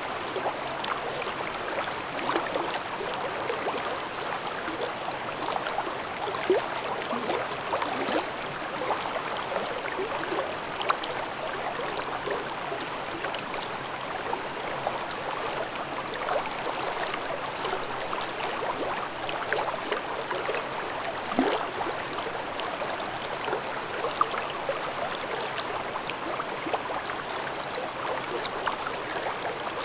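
Mountain stream in a gorge babbling steadily over rocks, with small gurgles and splashes scattered through the even rush of water.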